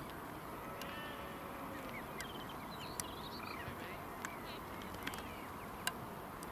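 Birds calling in short, high, downward-curving chirps and peeps over a steady background hiss, with three sharp clicks in the second half.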